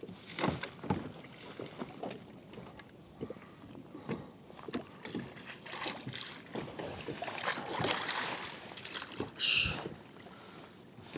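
Handling noise on a fishing kayak: scattered knocks, clicks and scrapes against the hull with water lapping, and a short louder rushing sound near the end.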